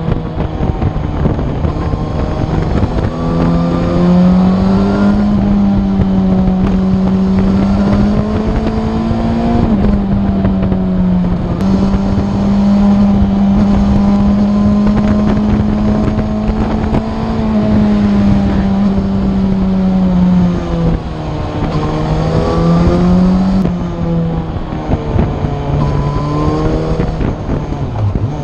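Motorcycle engine running at speed during a ride. Its note holds fairly steady for long stretches, dropping and climbing again briefly about ten seconds in and several times in the last third as the throttle eases and picks up, with some wind noise.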